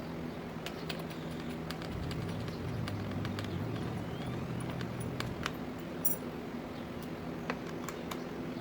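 Scattered light metal clicks and taps of a small open-end wrench working 10 mm shipping nuts and mounting clips off a generator frame, over a steady low hum.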